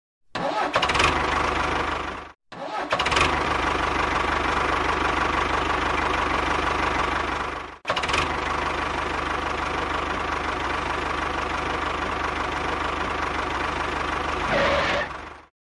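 A motor running steadily in three stretches, each cut off abruptly, with a steady low hum.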